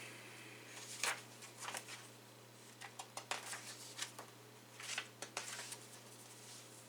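Faint scattered clicks and soft rustles, like light handling of paper or objects near a microphone, over a steady low electrical hum.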